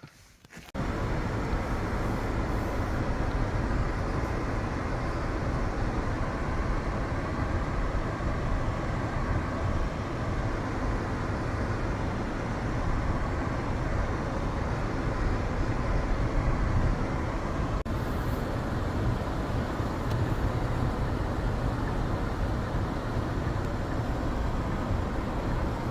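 Steady road and engine noise from a 2024 Hyundai Tucson on the move, a low rumble with tyre hiss. It starts abruptly about a second in.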